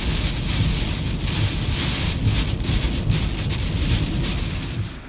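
Hurricane wind and heavy rain in gusts, with the wind buffeting the microphone in low rumbles. It cuts off suddenly about five seconds in.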